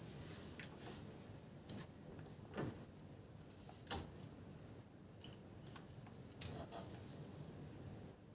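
Faint, scattered clicks and knocks, four sharper ones spread a second or so apart, over a low steady hiss.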